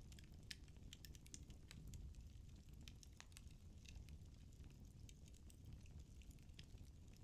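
Faint crackling of firewood burning in a fireplace: irregular sharp pops and ticks over a low, steady rumble of the flames.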